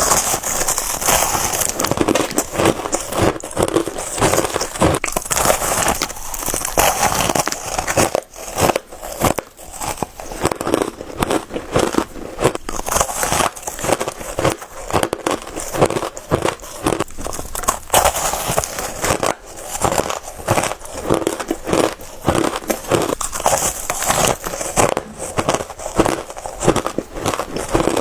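Crushed ice being bitten and chewed close to the microphone: a rapid, continuous run of sharp crunches and crackles.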